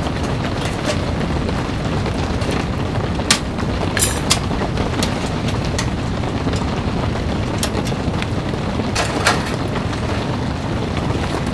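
Steady rain drumming on the tent fabric. A few sharp clicks and knocks come from the small metal wood stove as its door is shut, one cluster about four seconds in and another near the end.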